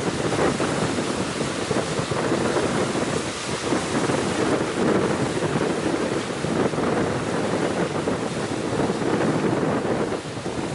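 Strong gale wind buffeting the microphone over the wash of ocean surf: a dense, unbroken rushing noise that swells and eases.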